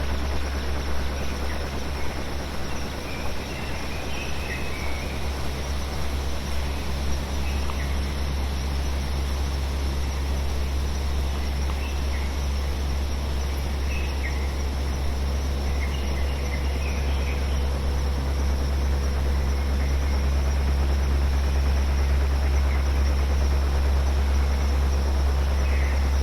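Steady synthesized brown and pink noise, heaviest in a deep low rumble, mixed with a forest field recording in which birds chirp faintly every few seconds.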